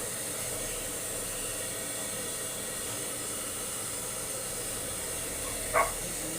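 A blow dryer running steadily with an even rushing hiss. About five and a half seconds in there is one brief, sharp, louder sound.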